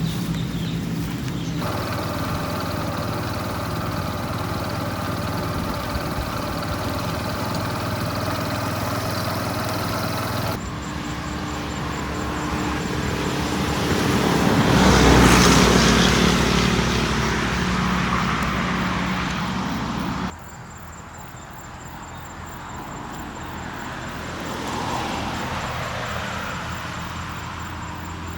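A vehicle engine running on the move, with road and wind noise. A louder swell of noise builds to a peak about halfway, and the sound changes abruptly a few times.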